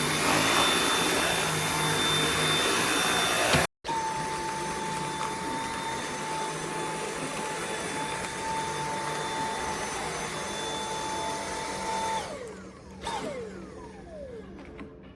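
Dyson V8 cordless stick vacuum running with a steady whine. It breaks off for a moment about four seconds in, and about twelve seconds in it is switched off, its motor whine falling in pitch as it spins down.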